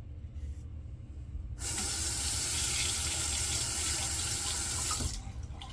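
Tap water running into a sink between shaving passes, starting about one and a half seconds in and stopping about a second before the end.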